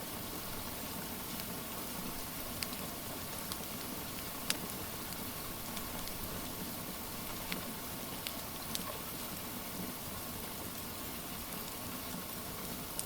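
Steady hiss of rain mixed with a wood fire crackling, with scattered sharp pops every second or two.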